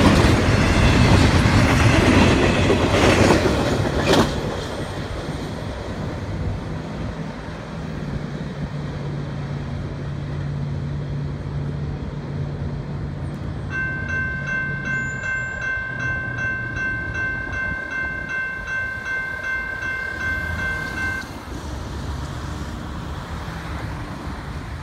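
Double-stack intermodal train's well cars rumbling and clacking past loudly for the first few seconds, then fading away. About halfway through, a railroad crossing bell rings with a steady, rapid repeating tone for several seconds, then stops abruptly.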